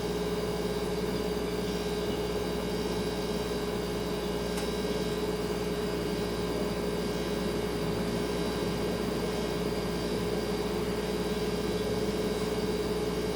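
Refrigerator running with a steady hum.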